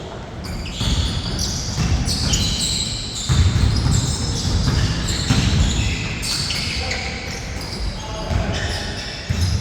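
Basketball being dribbled and bounced on a court floor during play, with repeated low thuds and short high squeaks scattered throughout.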